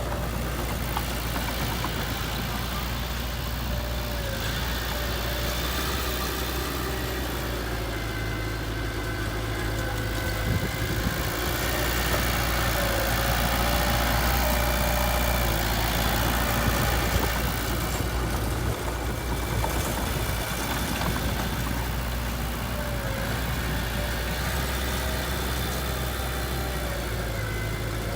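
Heavy machine's diesel engine running steadily, growing somewhat louder for a few seconds about halfway through.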